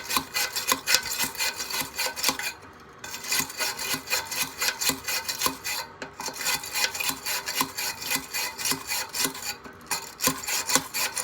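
A stiff brush scrubbing the fins of a dirty, cleaner-soaked furnace blower wheel in quick back-and-forth strokes, about four a second. It stops briefly three times between runs of strokes.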